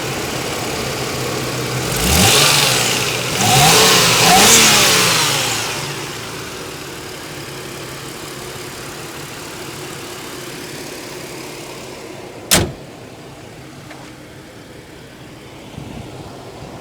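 2001 Lexus ES300's 3.0-litre DOHC V6 idling, blipped twice about two and four seconds in, its pitch rising and falling back to idle. About twelve seconds in comes a single sharp slam, after which the idle sounds quieter.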